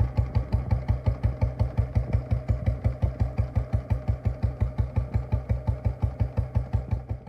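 Royal Enfield Bullet's single-cylinder engine idling through a loud exhaust, an even, heavy thump about six times a second.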